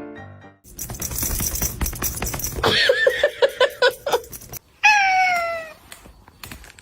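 A cat meowing: a warbling cry over clicking and rattling noise, then one long meow falling slightly in pitch about five seconds in. Piano music ends just at the start.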